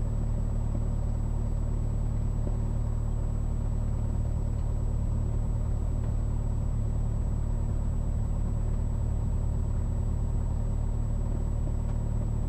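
Cessna 172S's four-cylinder Lycoming piston engine running steadily at low power, with an even, unchanging drone, just before the takeoff run.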